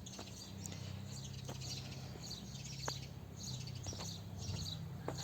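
Small birds chirping faintly in repeated short bursts, over a steady low hum.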